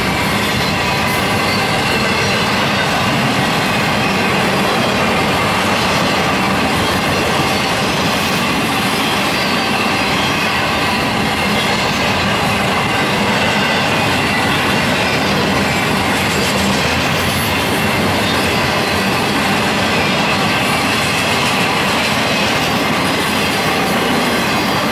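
Freight train of loaded flatcars passing close by, its steel wheels rolling steadily over the rails.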